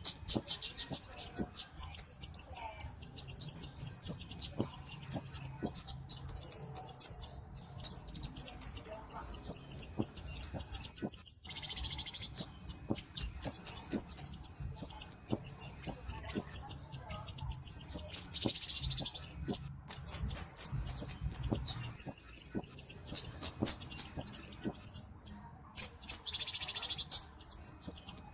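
A flowerpecker (cabe-cabean) calling in long runs of rapid, high-pitched, sharp chips, many to the second. Three times the runs break off briefly for a softer hissing sound.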